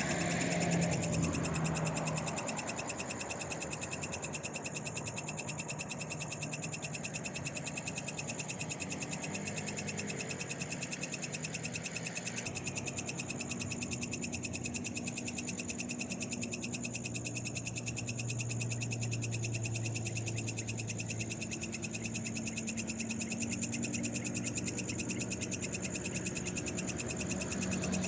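Night chorus of frogs with insects, a dense fast pulsing call with steady high trills over it. A low hum underneath swells for a few seconds around the middle.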